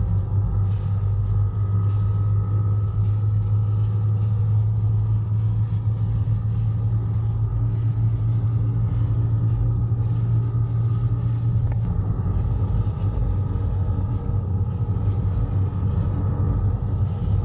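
Audi RS6's twin-turbo V10 pulling hard at very high speed, heard inside the cabin: a steady low engine drone under wind and road noise as the car keeps accelerating.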